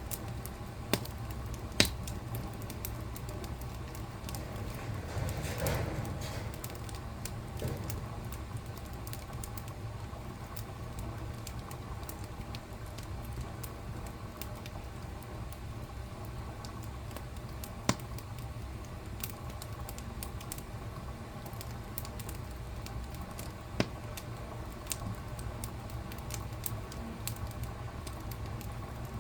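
Wood fire burning in a fireplace: a steady low rumble of flames under scattered crackles and a few sharp pops. The loudest pops come about two seconds in and later on, and there is a brief swell of flame about six seconds in.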